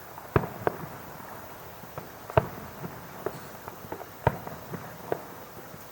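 Fireworks bursting: about half a dozen sharp bangs at irregular intervals, with a few fainter pops between them. The loudest bangs come about two and a half and four seconds in.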